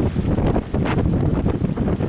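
Strong wind buffeting the microphone, with a loud, uneven low rumble that rises and falls in gusts.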